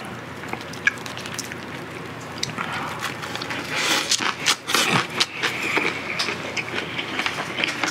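Close-miked chewing of a lettuce wrap of pork ribs and rice: crisp crunching of the leaves and wet mouth sounds, starting a few seconds in and busiest soon after the bite goes in.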